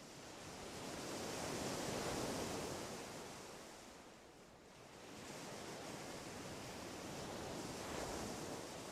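Waves breaking on a shore, a steady rush of surf that swells and fades every few seconds; no birdsong stands out.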